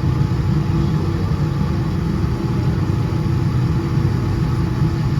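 Boeing 787-10 airliner with its engines running: a steady low rumble with a faint steady hum above it, unchanging throughout.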